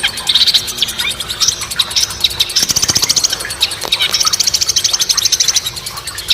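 Caged songbird singing high, rapid trills in bursts, the longest lasting about a second and a half, with short chirps between them.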